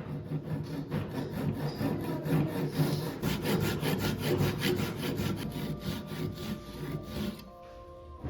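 Hand rasping on Indian mahogany hardwood: a file or abrasive worked back and forth in quick, even strokes, about four a second, stopping shortly before the end.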